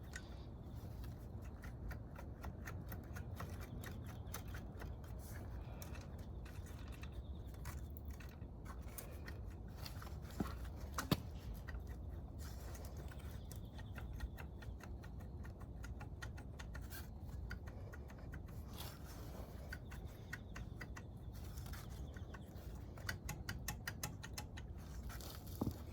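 Light scratching, scraping and small clicks from hand work on a motorcycle engine, with two sharper metallic clicks about ten and eleven seconds in, over a steady low hum.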